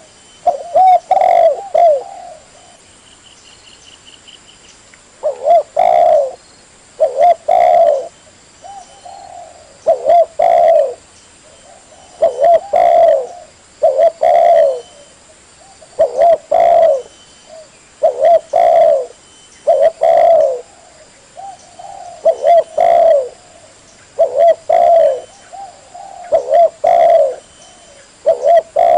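Spotted dove (tekukur) cooing in repeated phrases of two or three low coos, every second or two, with a pause of about three seconds shortly after the start. The calls are clean, with little background, of the kind used to lure doves.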